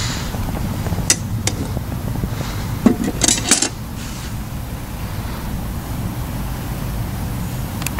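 Steady wind rumble on the microphone, with a couple of light clicks and then a short metallic clatter of camp cookware about three seconds in.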